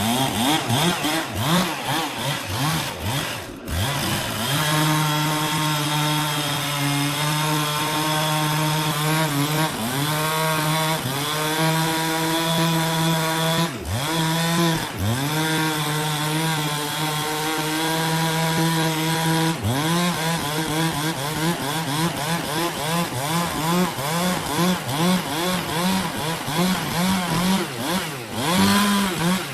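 Chainsaw running at high revs while cutting wood, its pitch dipping sharply and climbing back again several times.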